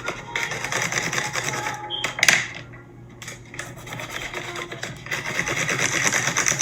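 Rapid back-and-forth scribbling of a colouring tool on a paper plate rim, in two stretches with a short pause in the middle. A sharp tap just before the pause is the loudest sound.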